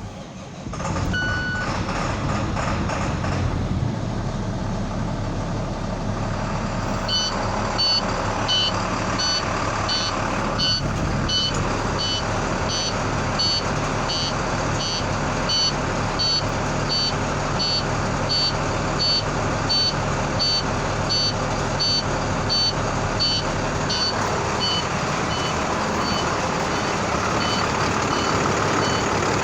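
Septic truck's engine starting about a second in and then running steadily. From about seven seconds on, a regular series of high electronic beeps, about one and a half a second, sounds over the engine.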